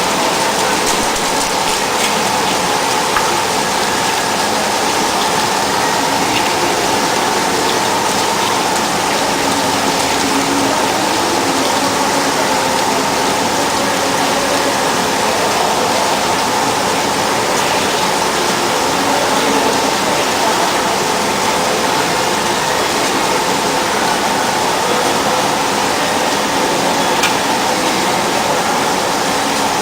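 DAMA HDC 1640 high-speed CNC drilling machine running, a steady rushing hiss like spraying coolant with a steady whine over it.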